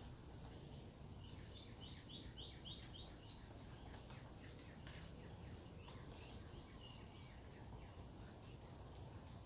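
A bird calling: a quick run of about eight short, high notes, roughly three a second, then a fainter run of notes and a brief held note, over a steady low background rumble.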